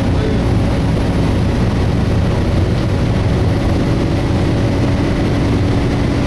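Volvo B7TL double-decker bus engine and radiator cooling fan running steadily, heard from inside the bus, with no screech from the fan.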